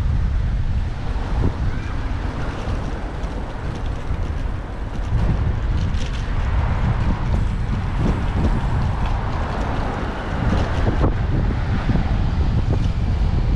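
Wind buffeting a bike-mounted action camera's microphone while cycling, a steady low rumble with street traffic beneath.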